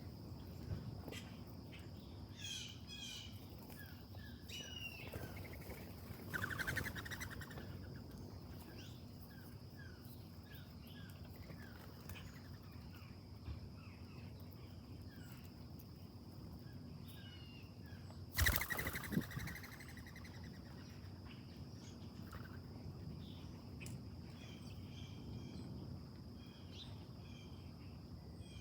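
Small backyard birds chirping on and off over a steady high insect drone, with a short harsh, loud call or flutter about a third of the way in and a louder one about two-thirds of the way in.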